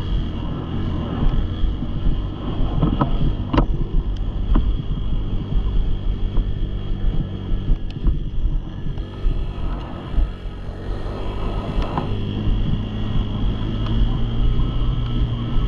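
Dirt bike engine running, with wind buffeting the microphone; its note steadies and grows a little stronger about twelve seconds in.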